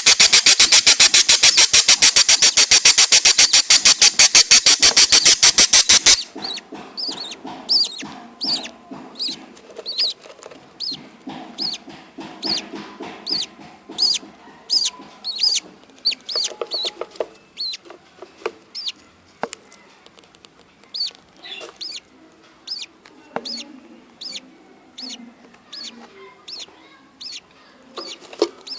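Budgerigars chirping, many short, high, falling calls in quick irregular succession. For about the first six seconds a loud, rapid, even pulsing covers them, then cuts off suddenly.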